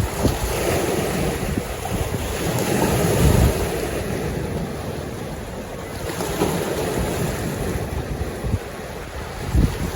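Lake waves washing onto the shore, with wind buffeting the microphone; the rumble swells loudest about three seconds in and gusts again briefly near the end.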